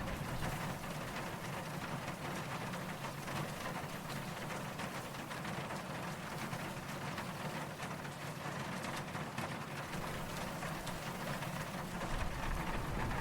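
Steady rain falling, with many small drop ticks. A soft, distant thunder rumble fades out about a second in and swells again near the end.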